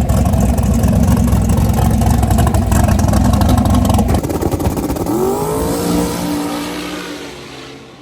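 Mazda RX-7 drag car running at full throttle, very loud. About four seconds in the full-power sound cuts off, a falling tone takes over and settles, and the sound fades away near the end.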